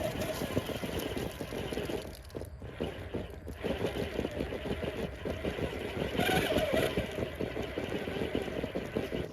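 1/6-scale RC rock crawler driving: electric motor and geartrain whine over dense crunching and clicking from the tires and chassis on rock and dirt. It eases off for about a second and a half near the start, then the whine rises with more throttle about six seconds in.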